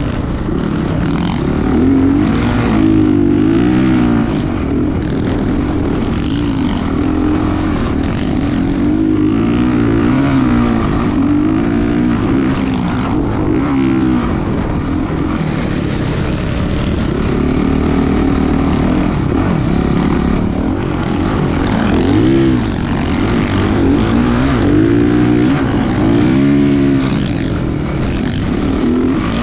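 Motocross dirt bike engine running hard and revving, its pitch rising and falling over and over.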